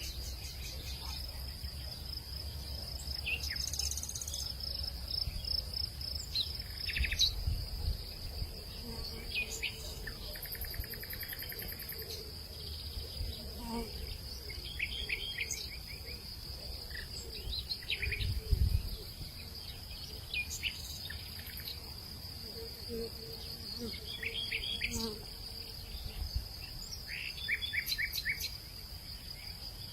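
Outdoor nature ambience: a steady, high-pitched insect trill, typical of crickets, runs throughout, while birds call in short quick series of chirps every few seconds. Low gusts of wind rumble now and then, the strongest about eighteen seconds in.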